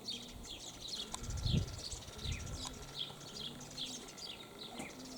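Pigeons cooing low while small birds chirp repeatedly in short falling notes, with wind buffeting the microphone about a second and a half in.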